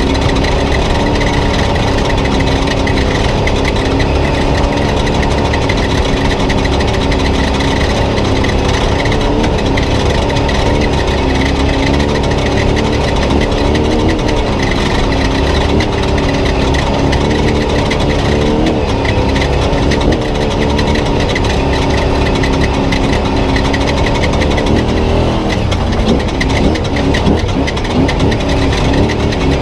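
Spec Trophy Truck's engine running hard under race load, heard from onboard, its note rising and falling with the throttle and never letting off.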